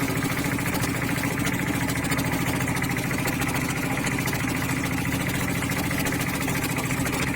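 Small fishing boat's engine running steadily at an even speed, with a constant low hum and fast regular firing pulses.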